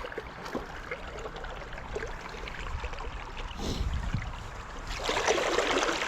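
River water running, a steady rushing with small ticks and splashes through it. It swells into a louder, fuller rush about five seconds in.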